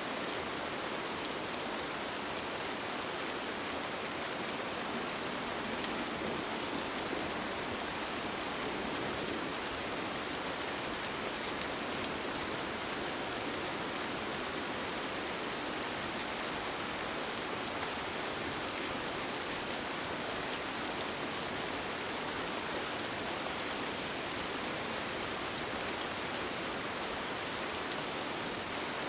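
Steady rain falling on a tent, an even hiss of rain with fine ticks of single drops and no change in strength.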